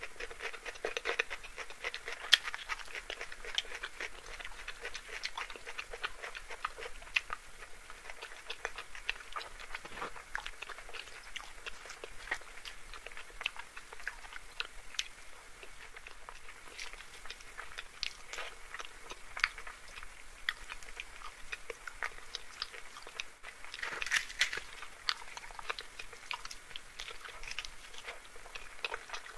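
Close-miked chewing and wet mouth sounds of someone eating luchi with dum aloo by hand: a steady stream of small smacks and clicks, a little louder about 24 seconds in.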